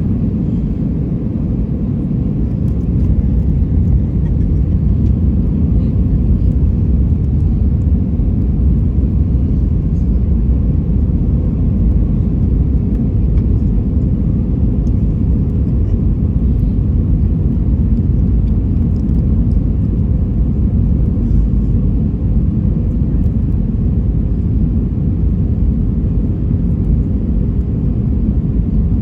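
Steady cabin noise inside an Airbus A320-200 airliner in flight: a constant low rumble of the engines and the air rushing past, with a faint steady hum on top.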